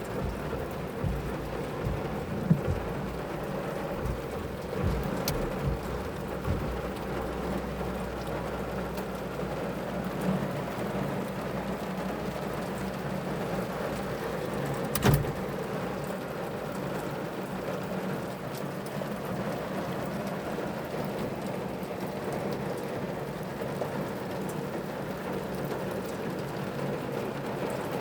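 Steady rain falling, with a low rumble through the first several seconds and one sharp knock about halfway through.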